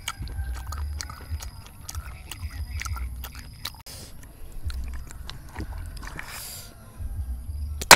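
A person chewing fried snails close to a clip-on microphone, while snail shells click and scrape against each other and the metal wok as her fingers pick through them. A sharp click comes near the end.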